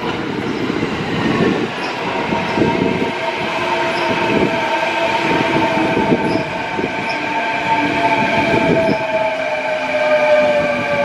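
A Kintetsu electric train running on the rails with a whine from its motors that falls slowly in pitch, the sign of the train slowing. Rumbling wheel and rail noise sits underneath.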